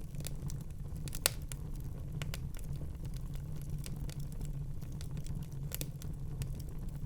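Wood fire in a fireplace crackling: scattered sharp pops and snaps over a steady low rumble, with a louder pop just over a second in and another near the end.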